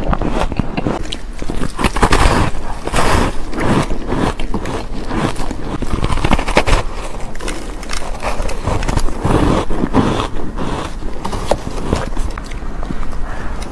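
Close-miked biting and chewing of crunchy food, with crisp crackles on each chew that follow one another irregularly, in the manner of eating ASMR.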